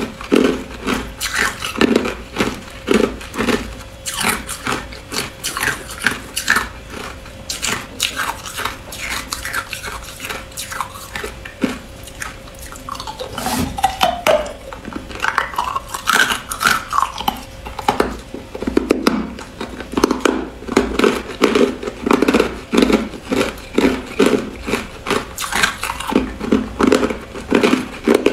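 Hard clear ice being bitten and chewed close to the microphone: a run of sharp, repeated crunches, about two a second, easing off for a few seconds around the middle before picking up again.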